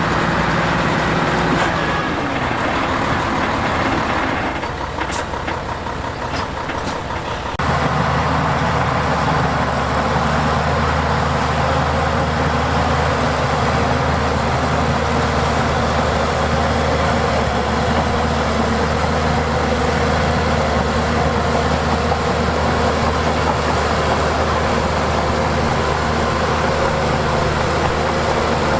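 Heavy diesel engine of a bulldozer or dump truck running steadily. From about four seconds in it turns quieter and thinner, then returns abruptly to full level about seven and a half seconds in.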